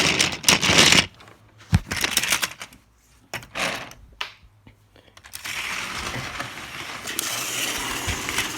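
Toy trains being handled and moved: a run of irregular clicks and rattles, then a steady hiss from a little past halfway.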